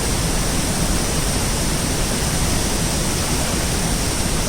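Monsoon-swollen waterfall pouring hard, a loud, steady rush of powerful water.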